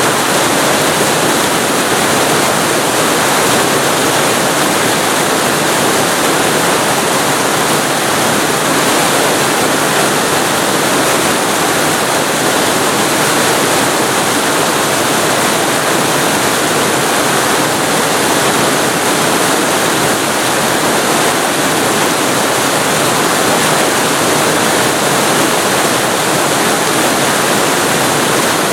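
Waterfall recorded very close to the falling water: a loud, steady rush of water with no breaks or changes.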